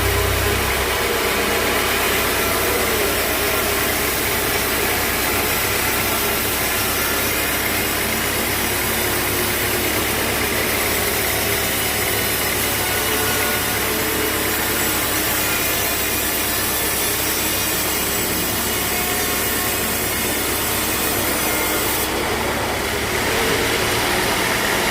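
A sawmill saw cutting steadily through a log, a continuous noisy rasp over a running engine.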